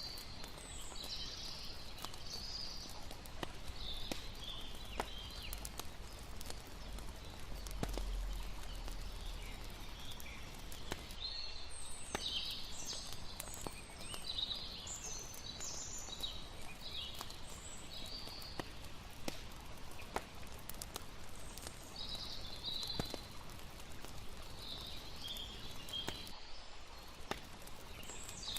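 Layered night ambience: a campfire crackling with scattered sharp pops, over a steady hiss of running water and clusters of high chirping calls that come and go.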